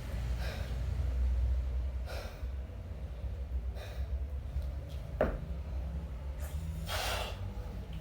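Forceful breaths of a kettlebell sport lifter working a 20 kg kettlebell in one-arm long cycle, a short puff every second and a half or so, the loudest near the end, over a steady low hum. A short sharp knock comes about five seconds in.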